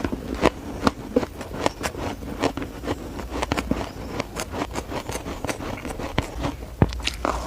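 Shaved ice being bitten and chewed: a rapid, irregular run of crisp crunches and crackles, several a second.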